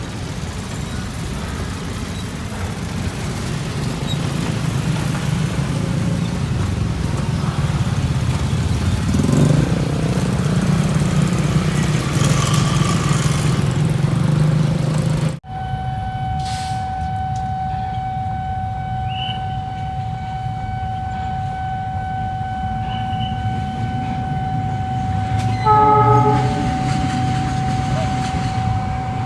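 Train running through a level crossing with a steady low rumble. After a cut, a single steady tone holds on, and near the end a train horn sounds one short blast.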